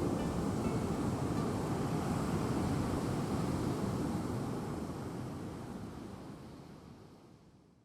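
Steady rushing of ocean surf, fading out over the last few seconds.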